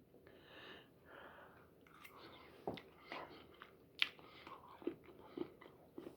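Faint close-up chewing of a mouthful of chicken in curry sauce, with wet mouth clicks and smacks scattered through it, the sharpest about four seconds in.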